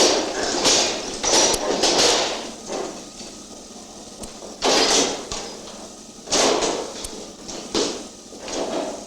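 Mechanical interlocking levers in a railroad signal tower being thrown by hand: repeated heavy metal clanks and rattles of the lever latches and linkage, in several bursts with a quieter stretch in the middle.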